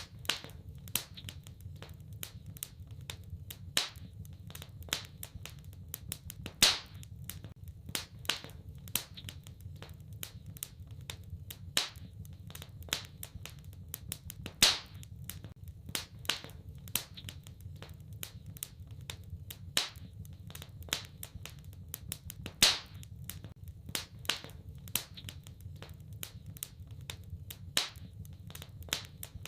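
Wood fire in a fireplace crackling: many irregular sharp pops and snaps over a steady low rumble of burning, with a few much louder pops about every eight seconds.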